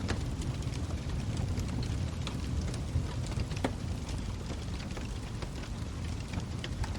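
Log fire burning with a steady low rumble and frequent small crackles and pops, one louder pop about three and a half seconds in.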